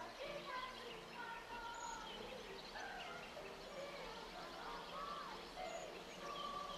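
Several birds chirping and calling, many short whistles and trills overlapping.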